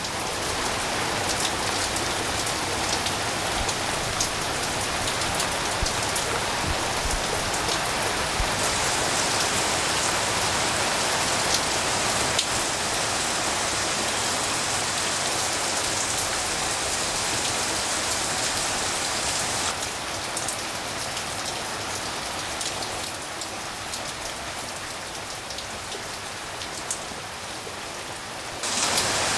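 Steady rain falling, with scattered sharp drop impacts; it eases slightly about two-thirds of the way through.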